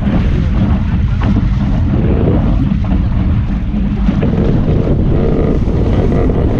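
Wind buffeting the microphone in a steady low rumble aboard a small sailboat under way.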